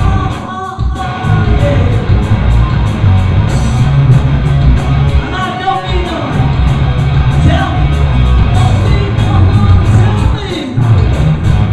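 Live hard rock band playing loud with a heavy bass and drum groove and a steady cymbal beat, with a singer's voice over it.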